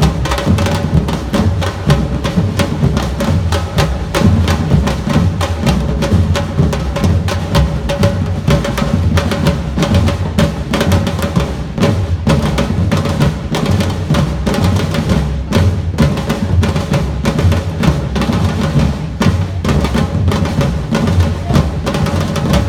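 Samba-reggae street percussion band playing a steady rhythm, with deep bass drums under dense, rapid drum strokes.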